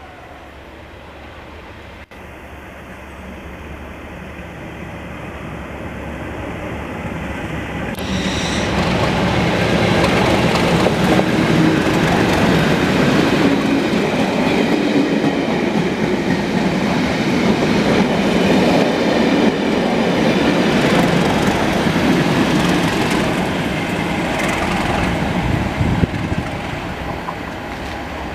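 Test train hauled by Class 37 diesel locomotives with English Electric V12 engines, passing on the line. Engine and wheel-on-rail noise with some clickety-clack grows louder over the first third, stays loud through the middle, then begins to fade near the end.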